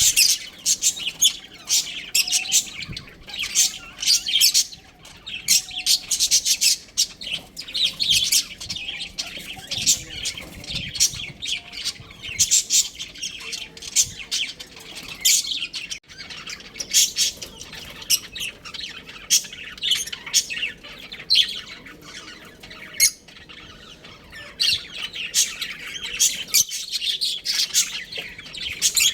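Budgerigars chattering, with a rapid, continuous stream of short high chirps and squawks from several birds together and only brief lulls.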